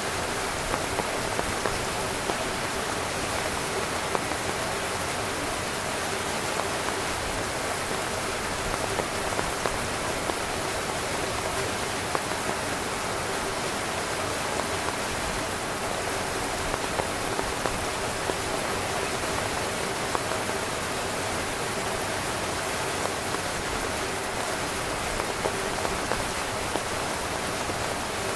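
Heavy rain drumming steadily on a tent, a dense even hiss with many small, sharp drop hits.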